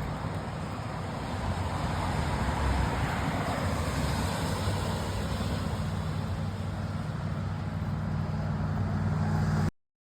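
BMW GS adventure motorcycle engine running under way, a steady low drone over wind and road rush, growing a little louder after about two seconds. It cuts off suddenly near the end.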